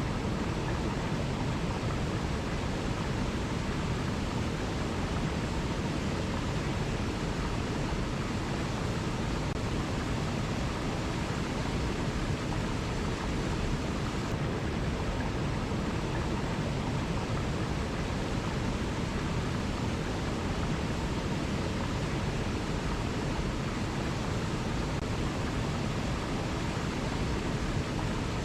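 Waterfall: water falling in a steady, unbroken rush with a full low rumble, no change in level.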